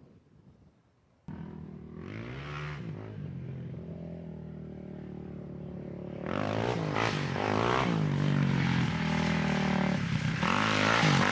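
Quad bike engine running and revving, starting suddenly about a second in. Its pitch rises and falls with the throttle, and it grows louder about six seconds in and again near the end.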